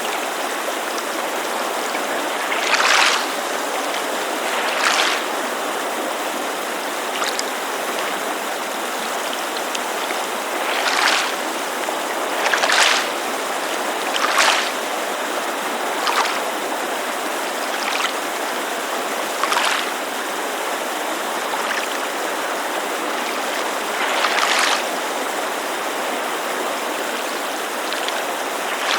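Small waves lapping at a lakeshore in short, irregular splashes every few seconds, over the steady rush of a mountain creek.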